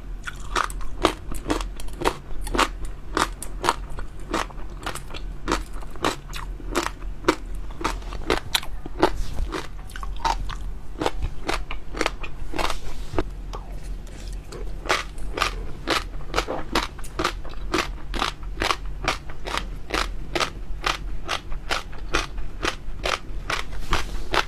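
Close-miked crunchy chewing of jelly pearls with crisp water-chestnut centres, a sharp crunch about two or three times a second, one bite after another.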